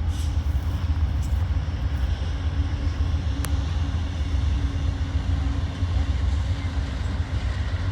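An approaching Amtrak passenger train's diesel locomotives: a steady low rumble with a faint hum. A single sharp click sounds about three and a half seconds in.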